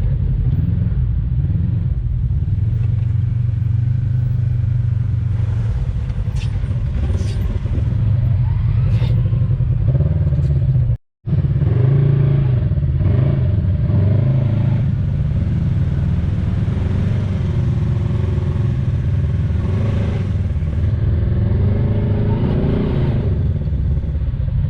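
Side-by-side UTV engine running under load, its revs rising and falling, with a brief break about eleven seconds in.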